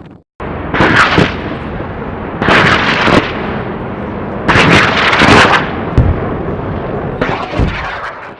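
Strong wind gusting hard against the microphone, a constant rush broken by four louder buffeting gusts.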